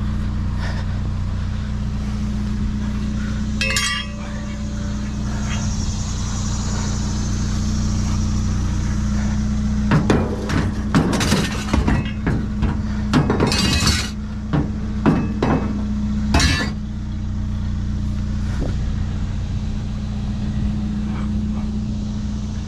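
Junk clinking and clattering as trash is rummaged through, with one sharp knock early and a cluster of sharp clinks and knocks in the middle. Under it, the steady hum of an idling vehicle engine.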